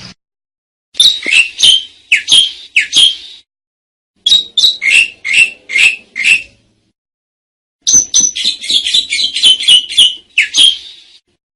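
Asian pied starling (jalak suren) calling: three bursts of rapid, sharp chattering notes, each burst two to three seconds long, with short, dead-silent gaps between them.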